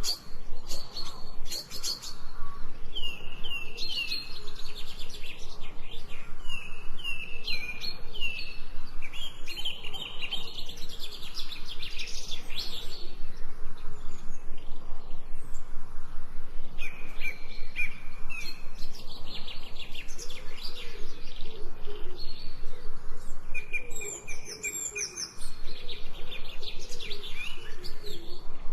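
Several small birds chirping and singing together, a busy chorus of short, quick notes and little falling whistles, with some lower calls underneath in the second half.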